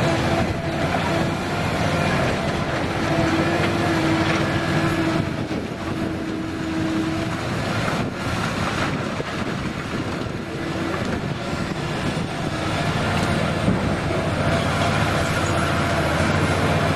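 Liebherr hydraulic excavator working: its diesel engine runs steadily under load, with a whine that comes and goes and a rattling clatter.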